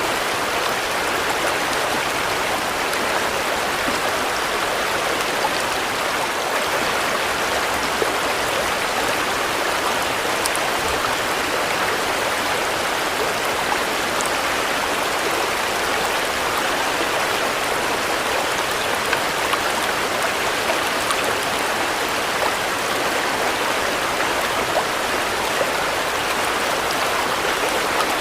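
Steady rain falling, an even hiss of drops with a few faint individual ticks.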